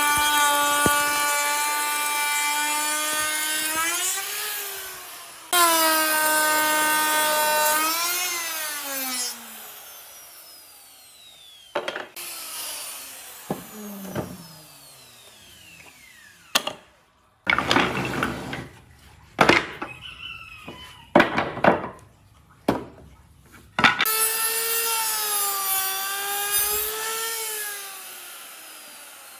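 Electric woodworking power tool running with a steady whine that dips in pitch as it cuts into the wood, twice in the first ten seconds. It then winds down with a falling whine, followed by a stretch of rough cutting noise with sharp knocks, and the motor runs and cuts again near the end.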